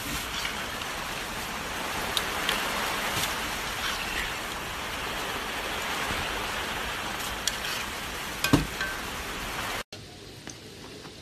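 Jamaican fried dumplings deep-frying in hot oil: a steady crackling sizzle with scattered pops. A sharp knock comes about eight and a half seconds in. Near the end the sizzle drops abruptly to a much quieter level.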